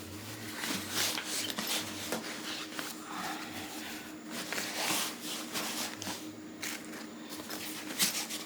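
Irregular rustling and scraping of fabric and a travel bag being handled while packing clothes, over a faint steady hum.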